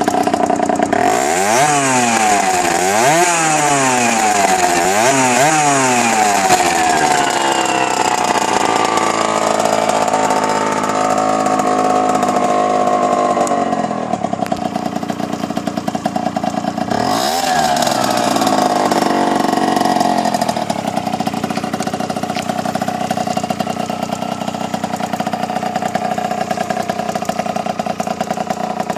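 Aprilia SX motorcycle engine running through a Metrakit SP exhaust, revved three times in quick succession, then held high and let fall slowly. It is blipped once more a little past halfway, then settles to a steady idle.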